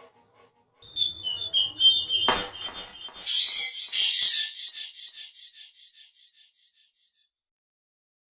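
A bird's high-pitched whistled trill: a rapid, even run of short notes that starts loud and fades out over about four seconds. A faint whistle and a single click come just before it.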